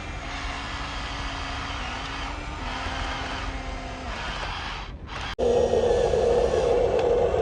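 Small electric motors and gearing of a radio-controlled toy excavator or dump truck whirring. The pitch shifts slightly as the load changes. About five seconds in, the sound breaks off abruptly and comes back as a louder, steady whine.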